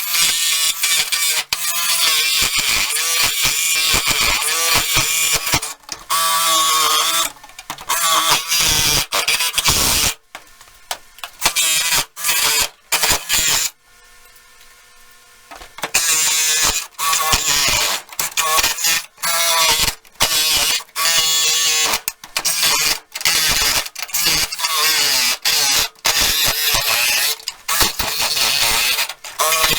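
A small power-tool motor running in many short bursts, spinning up and down in pitch and stopping abruptly, with a quiet pause about halfway through.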